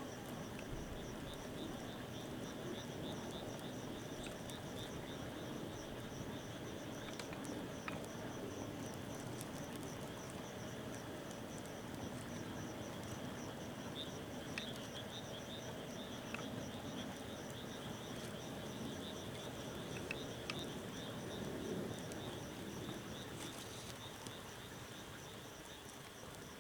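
Wood fire burning with scattered crackles and pops, over a steady background of insects chirping in fast, even pulses.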